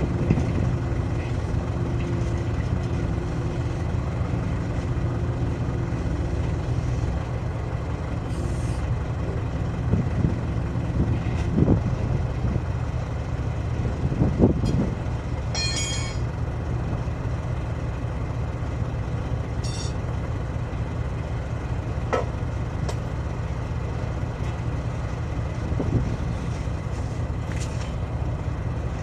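Heavy diesel engine running steadily at a low, even hum. Scattered metal knocks and clanks, and a few brief high rattles, come from heavy-equipment tyre work.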